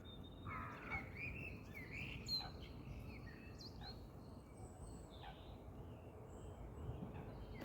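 Small birds chirping in short, scattered calls, most of them in the first few seconds, over faint steady low background noise.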